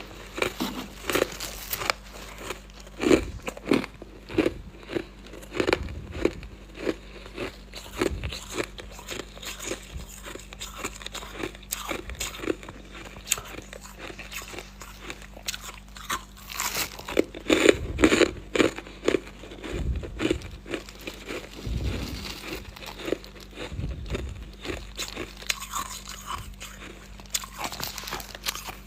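Close-up crunching and chewing of freezer frost: a dense run of crisp crackles and bites, with a louder cluster of crunches about two-thirds of the way in.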